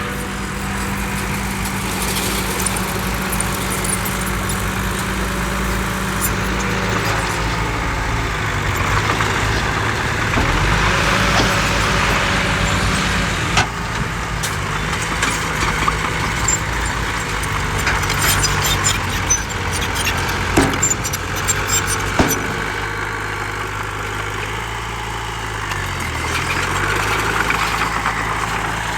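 Heavy diesel earthmoving machinery running at a stone fill site, engine speed shifting several times, dropping and climbing again near the end. A few sharp knocks stand out over the engine.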